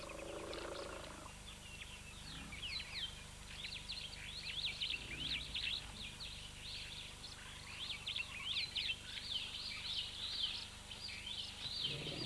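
Many small birds chirping together in a dense, continuous chorus of quick, high, mostly falling calls.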